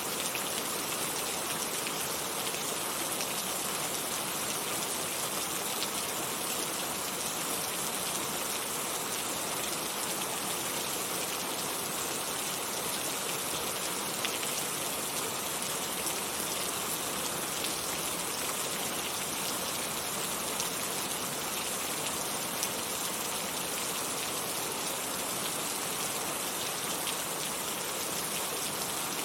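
Heavy rain falling steadily: a dense, even hiss of many drops hitting a surface, with no lulls or gusts.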